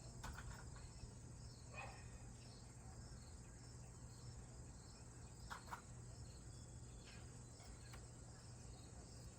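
Faint steady high-pitched insect chirring, like crickets, over a low hum, with two brief soft chirps or taps about two and five and a half seconds in.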